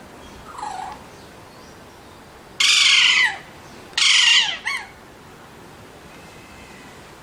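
Alexandrine parakeet calling: a faint short call about half a second in, then two loud calls of about half a second each that fall in pitch, around three and four seconds in, the second followed by a brief small call.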